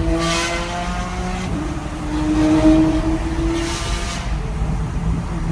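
Pagani Zonda R's V12 engine running at low revs as the car moves slowly, its pitch roughly steady with slight rises and a short dip about one and a half seconds in. Two brief brighter, raspier surges come about half a second in and again about four seconds in.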